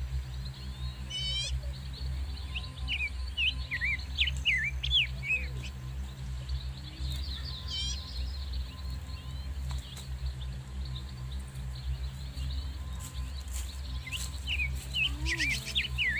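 Small birds chirping and trilling in short bursts, with clusters of quick whistled notes about a quarter of the way in and again near the end. A steady low hum runs underneath throughout.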